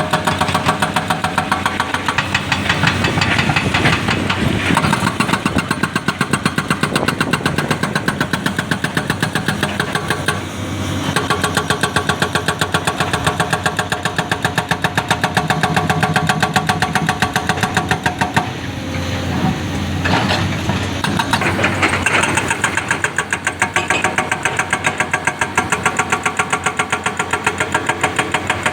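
Heavy diesel engine running with a fast, regular pulsing beat, its pitch and loudness shifting a few times as the load changes.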